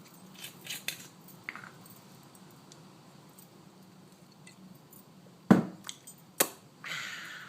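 Light clinks of a glass and a bottle of Jameson whiskey being handled, with two sharper knocks past the middle, then a short hiss near the end.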